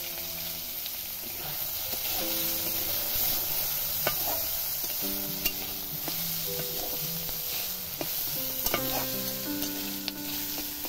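Potato cubes sizzling in hot oil in a cast-iron kadai, stirred with a metal spatula that scrapes and knocks sharply against the pan a few times. Soft background music with held notes plays along.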